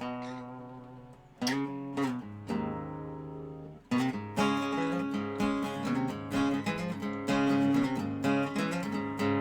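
Dobro resonator guitar played as blues: a few separate notes left to ring and fade, then from about four seconds in a steady, busy run of picked notes.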